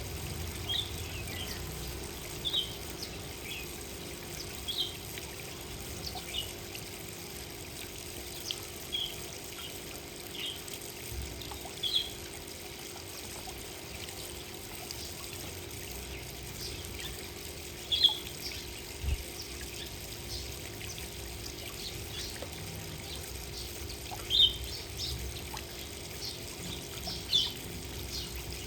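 Small birds at a birdbath giving short, high chirps every second or two, a few of them louder, over a steady background of trickling water.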